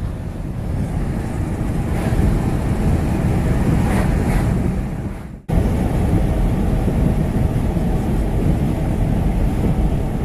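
Steady road and wind noise from a ute driving along, with wind buffeting the microphone. The noise breaks off for an instant about five and a half seconds in, then carries on.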